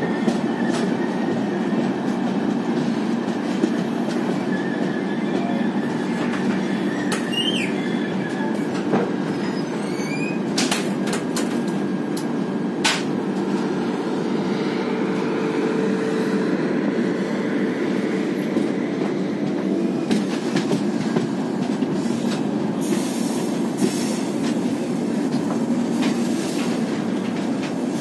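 Passenger train coaches rolling steadily on the track, heard from an open coach door: a continuous rumble of wheels on rail with a few sharp clicks. Faint thin wheel squeals come now and then as the train rounds the curves.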